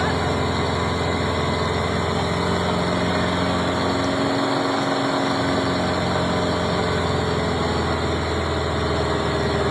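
An engine running steadily at an even speed, its hum under a constant hiss.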